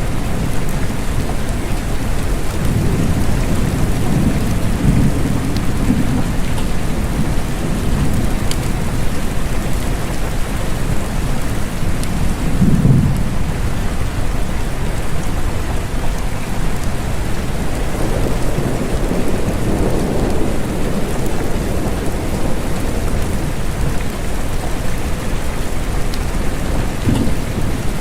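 Steady rain falling, with low rumbles of distant thunder rolling in several times.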